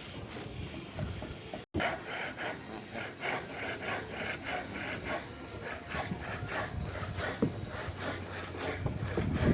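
Rapid, evenly repeated scraping strokes, like work on wood at a construction site.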